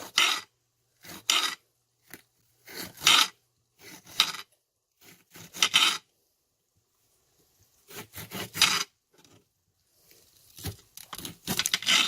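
Kitchen knife slicing a jalapeño on a cutting board: short scraping strokes every second or two, coming quicker near the end.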